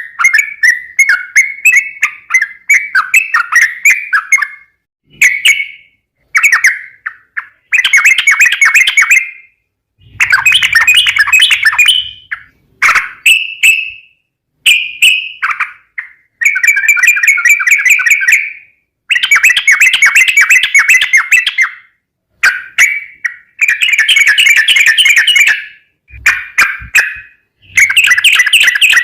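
Yellow-vented bulbul (trucukan) singing energetically: loud bursts of rapid, bubbly chattering notes, each a second or two long, separated by short pauses.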